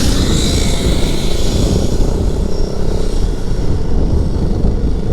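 Keeway 152 motorcycle on the move: a steady rush of wind over the mic, with the engine running at cruise underneath. The hiss is brightest in the first second or so.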